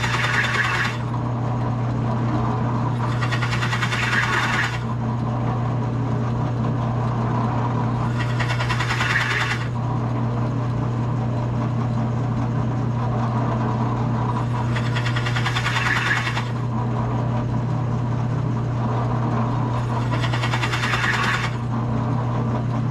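Drill press motor running steadily while a 2 1/8 inch Forstner bit is plunged into the wooden guitar body in five short cuts, each lasting a second or two, with the motor idling between them as the recess depth is worked toward by eye.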